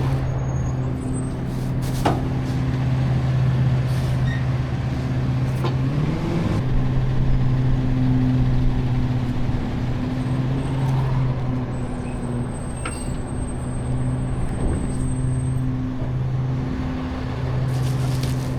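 Garbage truck's engine running with a steady low drone that briefly rises about six seconds in, with a few scattered clicks and knocks.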